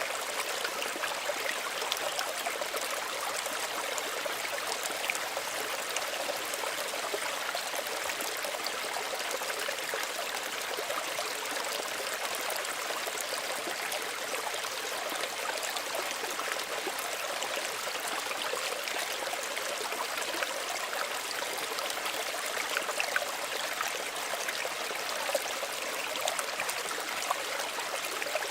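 Small stream of running water, a steady gentle babbling and trickling.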